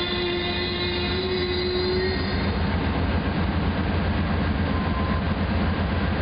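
Amtrak double-deck passenger train at the platform: a steady low rumble and hum. A high steady whine fades out over the first couple of seconds.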